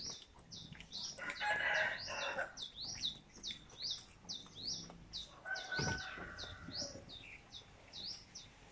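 A bird chirping over and over, short high chirps about three a second, with a louder, longer call about a second and a half in.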